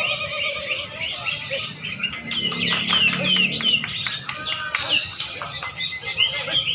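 Many caged songbirds singing at once, a dense overlap of rapid chirps and quick falling whistles, with a faint murmur of people's voices underneath.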